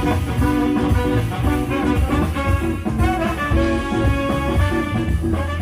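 Live swing band playing an instrumental passage, with brass carrying the tune over a steady beat.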